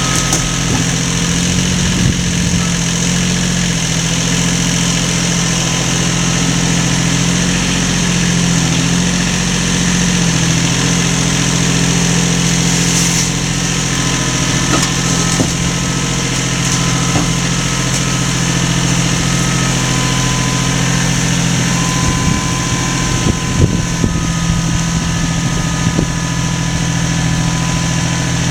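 A motor running steadily with a constant hum, with a few light knocks near the end.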